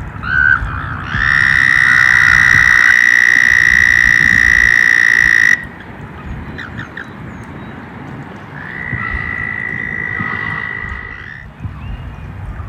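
Frogs or toads calling: one long, steady, high trill lasting about four seconds that stops abruptly, then a second, fainter trill a few seconds later, over a low background rumble.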